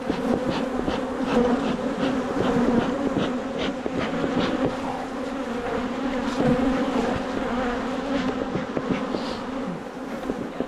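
A mass of honeybees buzzing around an opened hive: a steady, fairly loud hum with a low drone, dotted with light clicks.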